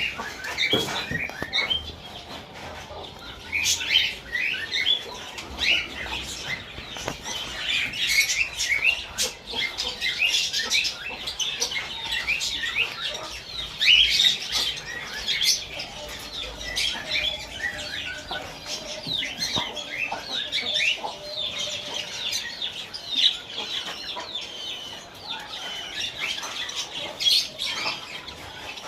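A large flock of small birds at a bird farm chirping and chattering together, many short calls overlapping without a break.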